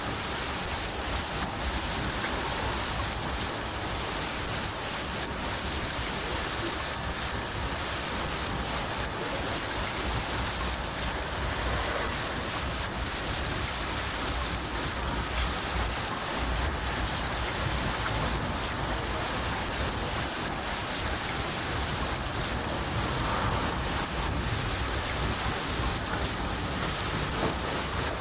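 Crickets chirping in a steady rhythm, about three high chirps a second, over steady rain and a low rumble of thunder.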